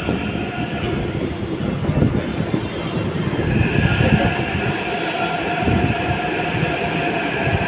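Metro train on the platform track: a continuous rumble of wheels and running gear, with a steady electric whine setting in about halfway through, as the train comes in to stop before its doors open.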